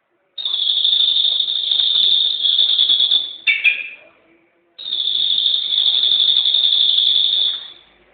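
A songbird's long, high, buzzing trill held for about three seconds, then a short lower chirp, then a second equally long trill: a bird-master song recording for tutoring cage birds.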